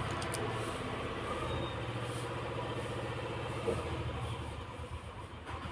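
A motor or engine running steadily with a low hum and a fast even pulse, easing off a little near the end.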